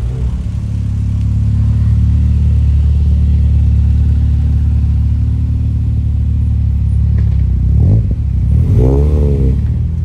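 Car engines rolling in at low speed: a steady low drone, then two short revs about eight and nine seconds in.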